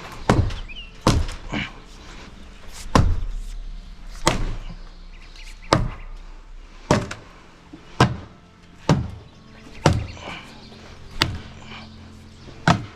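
Heavy, repeated whacks and thuds of demolition work, about one blow a second, a dozen in all, some with a short ringing tail.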